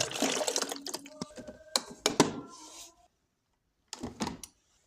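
Water splashing into a drip coffee maker's reservoir at first, then several knocks and clicks of the machine's plastic parts being handled.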